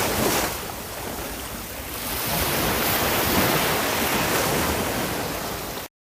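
Sea waves breaking on a shore: a surge of surf that eases for a moment and swells again with the next wave, then cuts off abruptly near the end.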